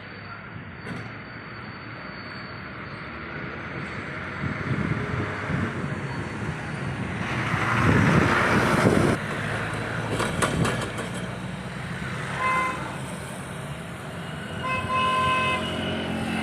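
Road traffic, with a vehicle passing loudly about eight seconds in and a vehicle horn tooting briefly near twelve seconds and again, longer, near the end.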